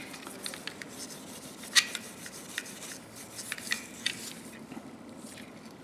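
Steel wool scrubbing a rusty pair of steel locking pliers: faint scratchy rubbing broken by irregular light metallic clicks and ticks as the tool is handled, the sharpest a little under two seconds in.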